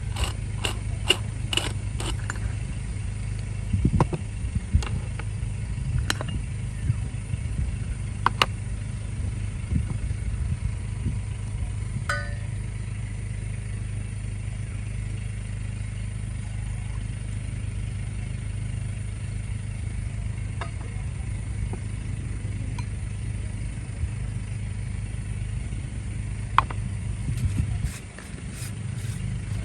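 A steady low engine rumble, with scattered clicks and knocks in the first several seconds and a short drop in level near the end.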